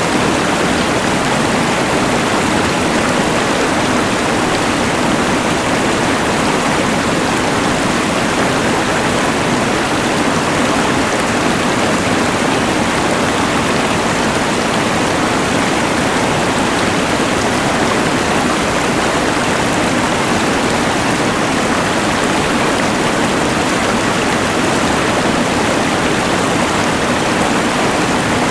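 Steady rushing of a mountain river blended with the even hiss of a LectroFan white noise machine, unchanging throughout.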